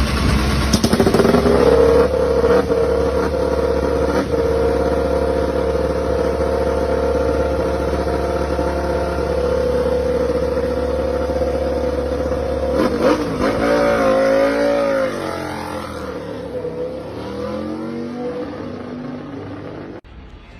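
Racing motorcycle engine at high revs, holding one steady pitch for about ten seconds. Near the end the pitch wavers up and down and the sound fades.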